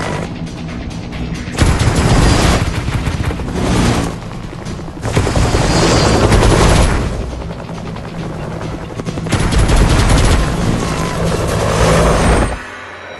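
Action-scene sound mix: a helicopter running steadily under music, broken by several long, loud bursts of rapid gunfire and booms.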